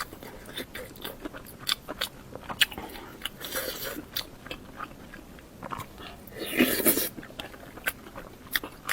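Close-miked eating: biting and chewing with many sharp wet mouth clicks, and two louder crunchy bites, one about midway and one later.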